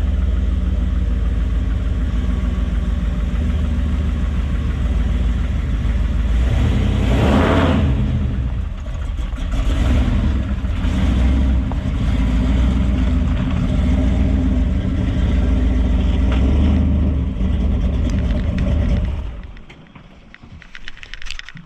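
A vehicle's engine running steadily, with a brief surge about seven seconds in, then the sound drops away sharply near the end.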